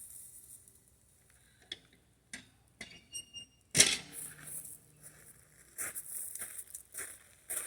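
Handling noises: a few clicks, a short electronic beep, then a loud knock about four seconds in, followed by repeated rustling and crinkling.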